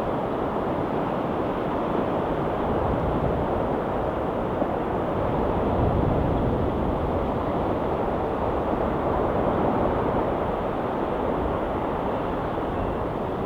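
Ocean waves washing steadily, a continuous rushing surf that swells slightly about six seconds in.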